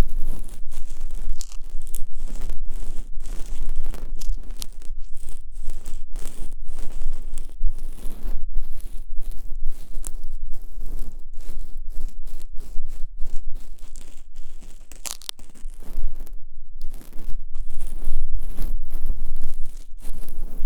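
ASMR ear cleaning: an ear-cleaning tool scraping and rubbing against a microphone's ear, making loud, close scratching and rustling in irregular strokes with brief pauses between them.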